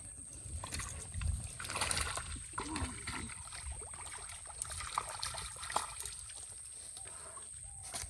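Pond water splashing and sloshing, loudest about two seconds in, with two sharp clicks a little under a second apart near the middle.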